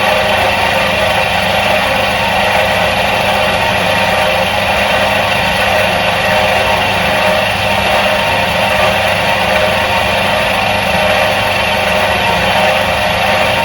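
Electric motor of a 1977 Soviet washing machine running steadily, an even, unchanging hum.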